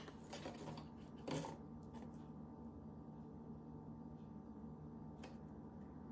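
Quiet room tone with a steady low hum and a few faint, light clicks, the clearest about a second in and another near the end.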